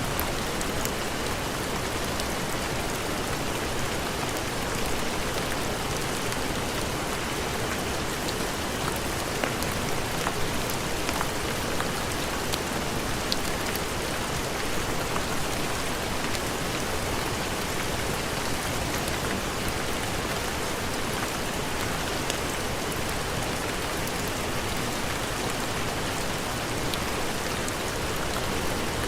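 Steady heavy rain, an even hiss with scattered small ticks of drops throughout.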